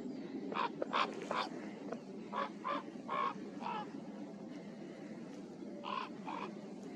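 A corvid calling in short, repeated calls: four in quick succession, then a run of five, then two more near the end, over a steady low background rumble.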